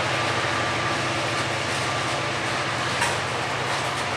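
CSX coal train running, a steady low rumble with a few faint clicks about three seconds in.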